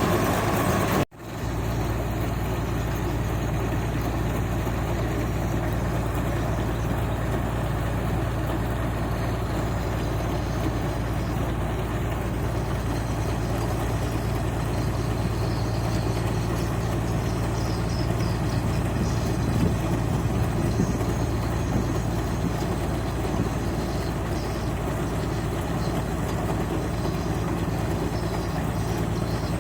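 Engine of a rice paddy machine running steadily at a constant speed. It cuts out abruptly for a moment about a second in, then resumes.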